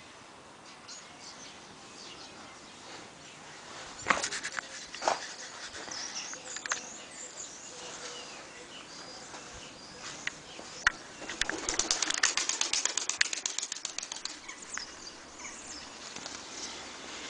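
Takla tumbler pigeons flapping their wings: short bursts of flapping about four and five seconds in, then a rapid run of wing beats lasting about three seconds in the middle, the loudest part.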